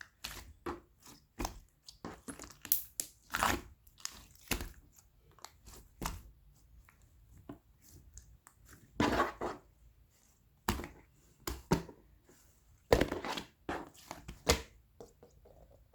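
Galaxy slime being handled and squeezed by hand, giving irregular sticky crackles and clicks, with a few louder crunchy bursts of popping.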